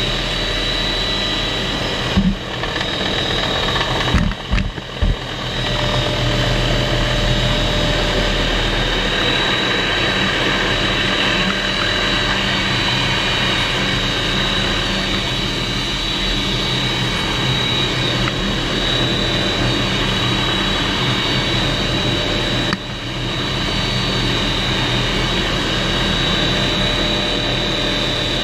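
Helicopter running steadily, heard from inside the cabin, its engine and rotor drone holding one even pitch. Brief dips break it a few seconds in and again near the end.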